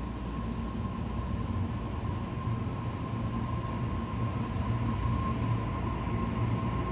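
A Tobu 60000 series electric train drawing into the station, its low rumble slowly growing louder, with a thin steady high tone throughout.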